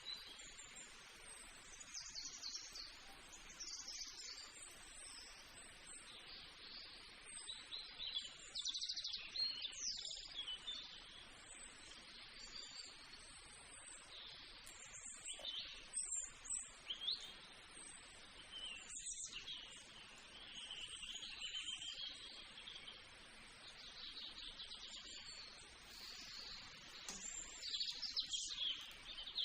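Birds chirping and calling, many short chirps and quick whistling notes over a faint steady hiss.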